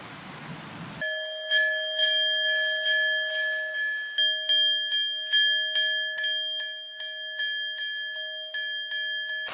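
A bell-like chime struck over and over, about two strikes a second, each ringing on with the same set of clear bell tones. It starts abruptly about a second in after a faint hiss, and it cuts off sharply.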